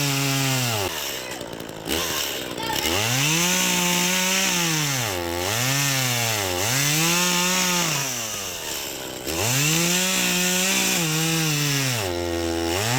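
Small Echo two-stroke chainsaw running under load, its engine pitch surging up and sagging again several times as the chain bites into a thick tree trunk that proves hard to cut. The engine drops briefly toward idle about a second in and again near the end.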